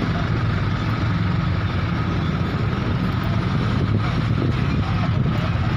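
Steady hum of a motor vehicle engine running, with surrounding street noise.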